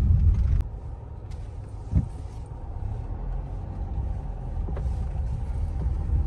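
Low rumble of a car on the road. It drops off sharply about half a second in, there is a single knock about two seconds in, and then the rumble slowly builds again.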